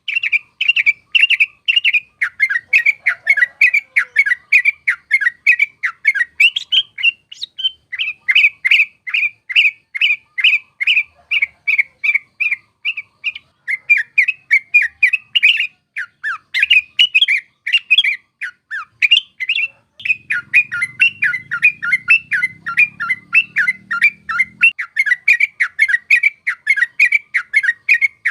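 Yellow-vented bulbul (trucuk) singing a long, fast rolling chatter of short notes, about four to five a second, broken by brief pauses. A faint low hum sits under it for a few seconds past the middle.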